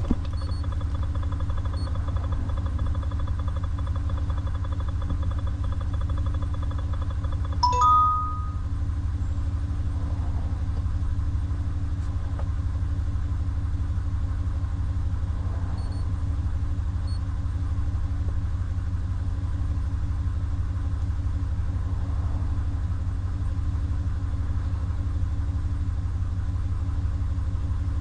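2019 Ram 1500 pickup idling steadily with a low rumble. A short two-tone electronic chime sounds once, about eight seconds in.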